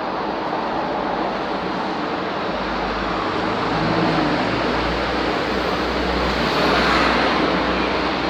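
Road traffic noise with a steady wash of engine and tyre sound. A heavy vehicle's low rumble comes in about three seconds in and swells to its loudest near seven seconds as it passes.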